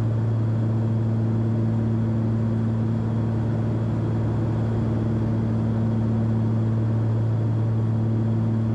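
Steady drone of a Cessna 340's twin piston engines and propellers heard inside the cabin, a low hum holding an even pitch throughout.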